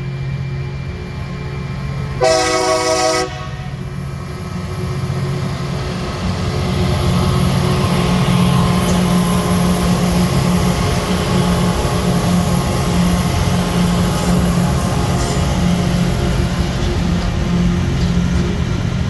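Diesel freight locomotives hauling a train up a grade. About two seconds in the horn sounds a single chord for about a second. The low engine rumble then grows louder from about six seconds in and stays loud as the train draws near.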